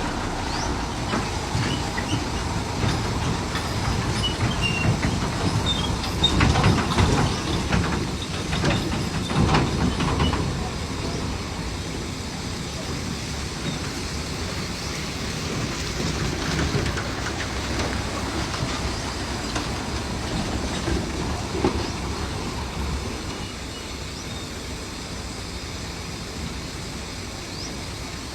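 Heavy construction machinery running, with metallic clanking and rattling over a steady engine noise; the clatter is loudest about six to ten seconds in, and the sound eases off near the end.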